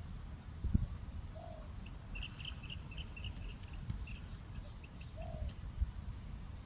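Two short low coo notes from a spotted dove, about four seconds apart, with a quick run of high chirps from a small bird between them. A low rumble runs underneath, with two dull thumps.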